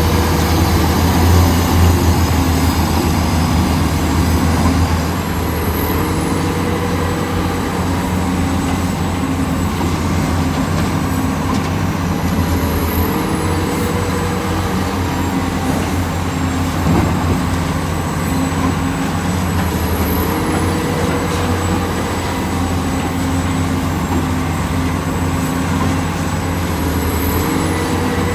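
Heavy diesel excavator engine running steadily under load. A hydraulic whine rises and then levels off about every seven seconds.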